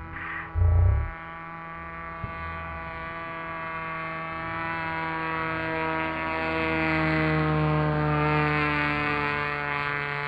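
Electric motor and propeller of a small foam RC plane in flight: a steady whine with many overtones that grows louder and slowly drops in pitch as the plane passes. A short low thump comes right near the start.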